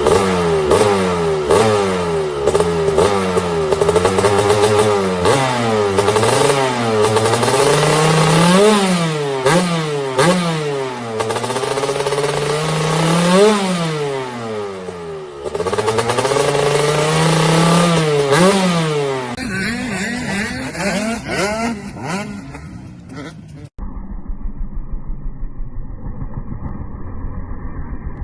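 Off-road motorcycle engines revving up and down over and over as the bikes are ridden. The sound changes abruptly about 19 seconds in and again about 24 seconds in, and the last stretch is muffled with a steady pulsing engine beat.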